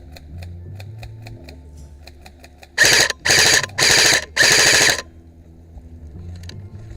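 Airsoft electric gun firing four short full-auto bursts, each about half a second long, in quick succession.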